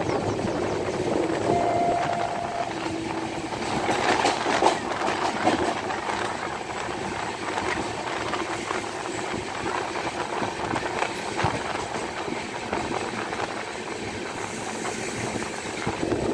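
Express passenger train running along the track, heard from an open coach doorway: a steady rumble of steel wheels on the rails, with a run of sharp clicks about four to five seconds in.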